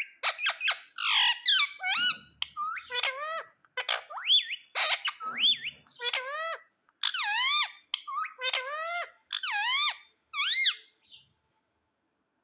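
Rose-ringed (Indian ringneck) parakeet making a rapid run of short squawky calls and chattering, each call swooping up and down in pitch.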